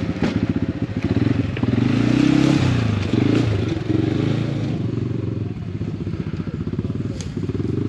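ATV engine running at low speed with a fast pulsing beat, revving up briefly about two seconds in and settling back, with a few sharp clicks over it.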